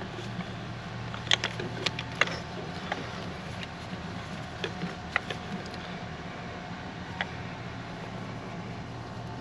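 Scattered light clicks and taps of hands pushing clear plastic tubing onto diesel fuel-injector return fittings, over a steady low hum.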